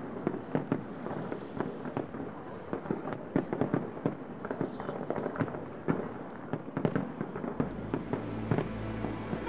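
Fireworks display: a dense run of aerial shell bangs and crackling, several reports a second. Near the end a low steady hum comes in underneath.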